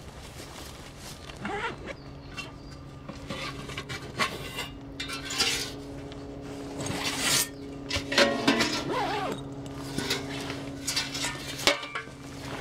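Clinks and knocks of metal camp cookware and utensils being handled, over a steady low hum that starts about two seconds in.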